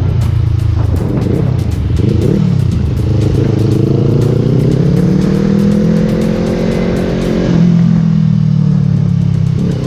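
Yamaha R3 motorcycle's parallel-twin engine running under way with its repaired silencer fitted. The engine pitch dips and rises early on, climbs slowly over several seconds, then drops back about three-quarters of the way through as the throttle changes.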